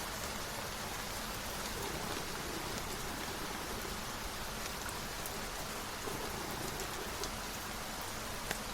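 Steady rain falling: an even hiss with a few separate drops ticking now and then.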